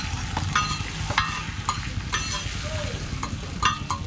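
Roti frying on a flat griddle, sizzling over a steady low rumble, with a metal spatula clinking and scraping against the pan several times.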